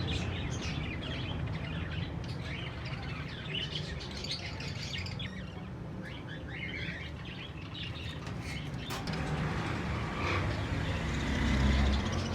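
Many caged small birds chirping and twittering at once, a dense overlapping chatter of short calls, over a steady low rumble.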